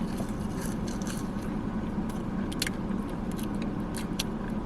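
Steady low hum of a car, heard inside the cabin, with scattered small clicks and crunches of someone eating.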